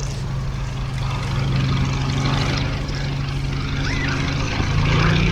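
Fairey Swordfish biplane's Bristol Pegasus nine-cylinder radial engine and propeller running steadily in flight. The engine note steps up in pitch near the end.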